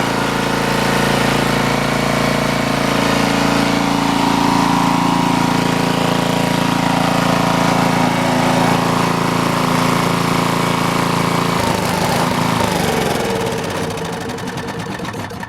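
Greenlee 5000-watt generator's small gasoline engine running steadily under no load. About three-quarters of the way through, its note changes and drops in pitch, and the sound fades off near the end.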